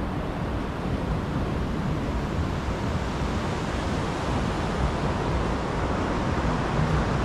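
Steady wind rumbling on the microphone over the wash of sea surf.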